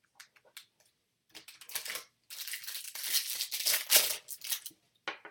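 Crinkling and tearing of a foil trading-card pack wrapper as it is ripped open, after a few light clicks of cards being handled.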